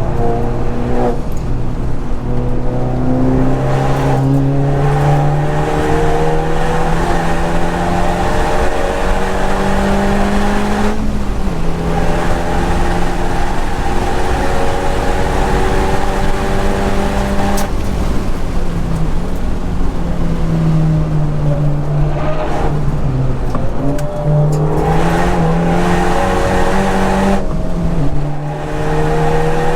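Honda Civic Type R FK8's turbocharged 2.0-litre four-cylinder engine under hard acceleration on track, its pitch climbing steadily and dropping back several times as it is shifted or lifted for corners.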